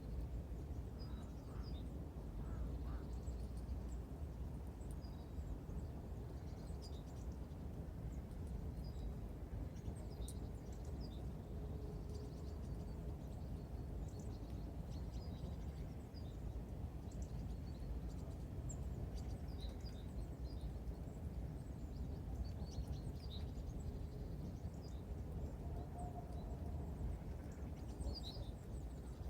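Small songbirds such as tits give faint, short, high calls scattered throughout, over a steady low rumble.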